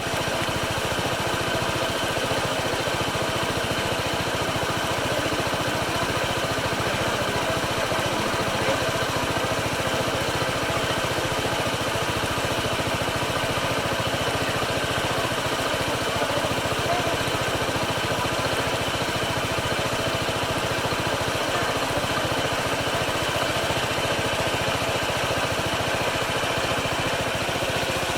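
Motorcycle engine running at a steady, unchanging speed, with no revving.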